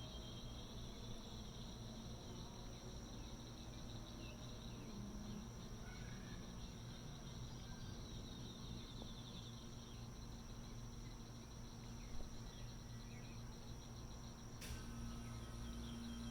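Evening insect chorus: steady high-pitched trilling over a low, steady machine hum, with a few faint chirps. A sharp click comes near the end, after which the hum grows a little stronger.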